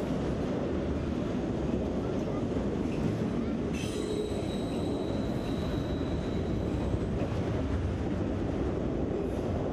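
Freight train of autorack cars rolling past close by, the steady rumble of steel wheels on the rails. About four seconds in, a high, steady wheel squeal sets in and lasts about two and a half seconds.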